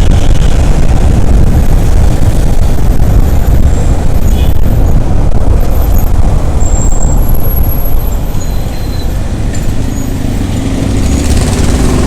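Ride on a motorcycle in city traffic: a loud, steady low rush of wind and road noise, easing a little about eight seconds in and building again near the end.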